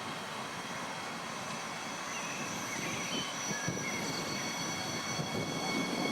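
Train running by on the tracks, growing louder. High steady whining or squealing tones from the wheels or drive join about three seconds in.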